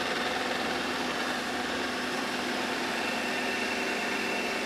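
Narwal Freo Z Ultra robot vacuum running steadily, its suction motor and brushes picking up pet hair from a corner. A faint high whine joins about three seconds in.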